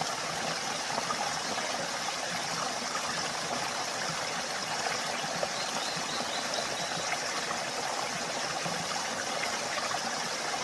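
Mountain valley stream flowing: a steady, even rush of running water.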